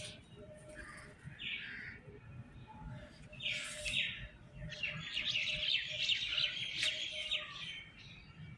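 Pet birds chirping: a few short separate chirps, then a run of rapid twittering from about five to seven and a half seconds in.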